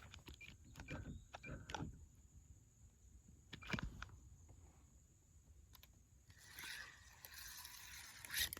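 A few light knocks and clicks on the kayak, then from about six seconds in a fishing reel being cranked steadily as the lure is retrieved.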